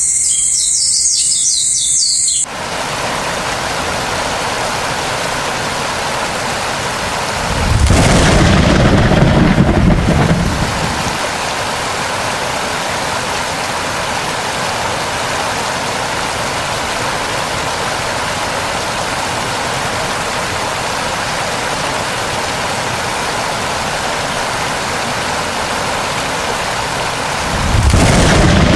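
Steady heavy rain, with a roll of thunder about eight seconds in and another starting near the end. In the first two seconds a high chirping sound is heard before the rain cuts in.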